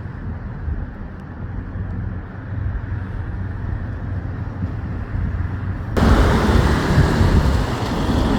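Low rumble of street traffic mixed with wind buffeting the microphone. About six seconds in it suddenly becomes a louder, hissier rush.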